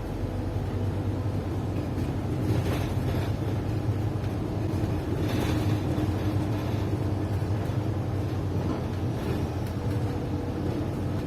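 Inside a moving city bus: a steady low engine and road rumble with a faint hum, and a couple of brief soft rushes, the first about three seconds in and the second five to six seconds in.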